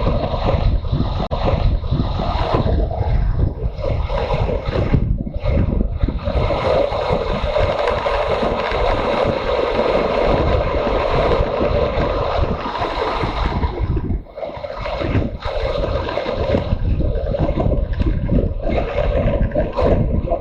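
Motorcycle running on the road with wind rushing over the microphone, the engine and wind noise rising and falling together and dropping briefly about two-thirds of the way through.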